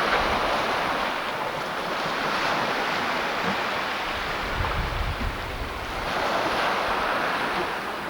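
Sea surf washing ashore, swelling and easing in slow surges, with wind buffeting the microphone.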